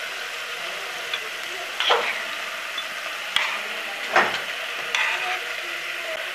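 Chicken liver pieces sizzling on a tawa griddle in the liquid they have released, with a spatula scraping across the griddle several times as the pieces are flipped.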